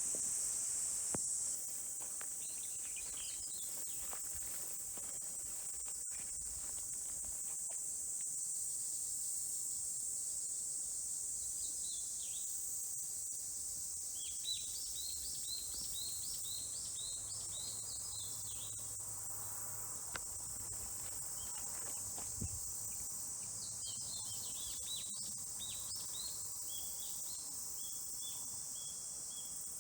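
A steady, high-pitched drone of summer insects, with bursts of repeated short bird chirps about halfway through and again near the end.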